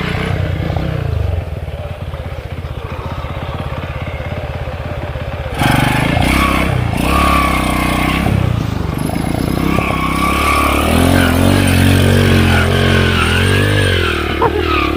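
Small underbone motorcycle engine running. It drops back to a lower, quieter note about a second and a half in, then gets suddenly louder about five and a half seconds in, with the revs rising and falling after that.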